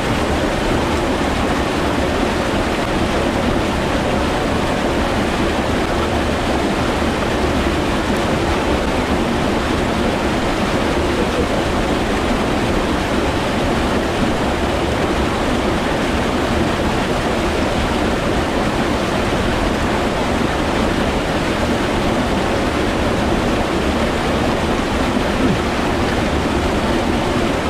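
Mountain stream water rushing over rocks close to the microphone, a steady, loud noise that doesn't change.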